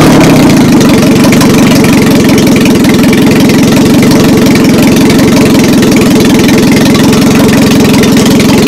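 Turbocharged Honda Civic engine running loudly and steadily, just caught on its first start after the turbo install.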